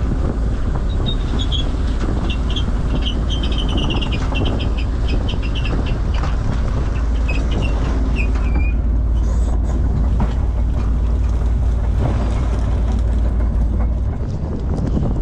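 A trawler's engine running steadily, with a low drone under a rough wash of noise. Through the first half comes a quick run of short, high squeaks.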